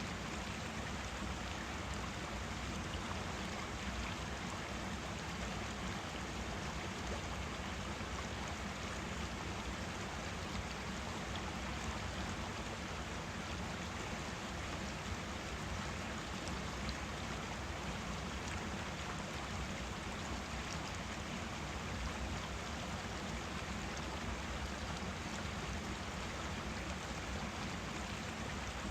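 Forest stream running, a steady, even rush and babble of water over stones.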